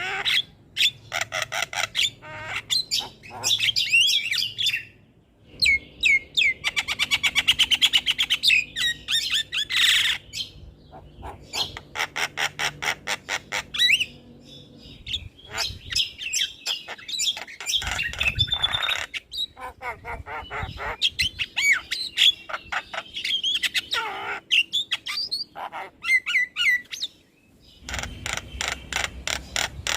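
Javan myna (jalak kebo) singing: phrases of rapid, sharp repeated notes mixed with whistled glides, broken by a few short pauses.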